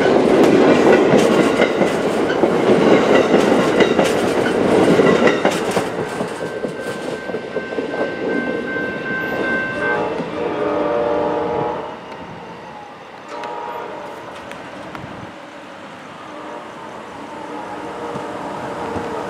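Amtrak stainless-steel passenger cars rolling past close by, their wheels clicking over rail joints, the noise fading as the train departs. About ten seconds in, the P42DC locomotive's K5LA horn sounds in the distance, then briefly again a few seconds later.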